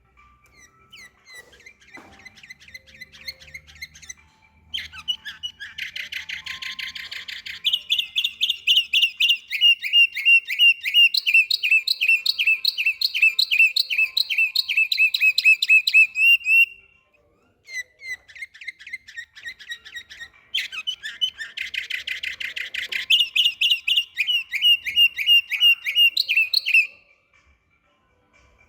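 A domestic canary singing: soft notes at first, then a loud song of rapid trills and long runs of repeated whistled notes. The song breaks off briefly about two-thirds through, resumes, and stops shortly before the end.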